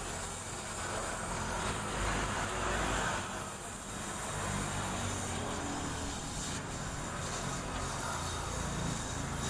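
Toyota Soluna GLI's four-cylinder engine running steadily through a JS Racing aftermarket exhaust, of which only the end muffler has been replaced while the middle silencer is kept.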